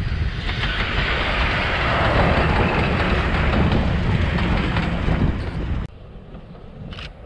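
Train running past close by, a loud, dense rumble with rail noise that cuts off suddenly near the end.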